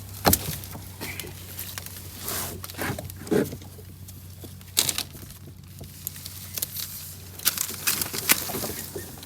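Reeds and fishing line rustling and crackling as they are pulled apart by hand, with irregular snaps and clicks.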